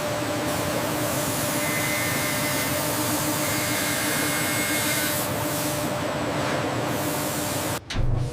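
Steady hiss of production machinery with a low hum underneath and a faint high whine that comes and goes. It cuts off suddenly near the end.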